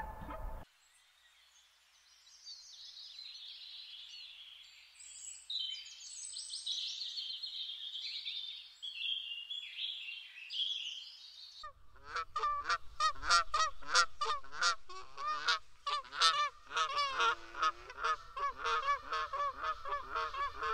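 High, thin twittering of small birds, then, about halfway through, a flock of large birds honking: many loud, rapid, overlapping honks.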